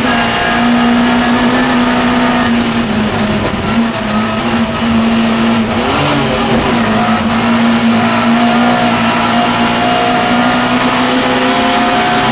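Mini Miglia race car's 1293 cc A-series engine heard from inside the car, running hard at high, steady revs over road and wind noise. The revs dip briefly about four seconds in and again around six seconds in.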